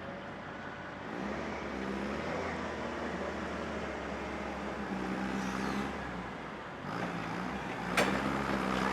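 A vehicle engine runs with a low rumble, its pitch rising and falling as it is revved several times. There is a sharp knock about eight seconds in.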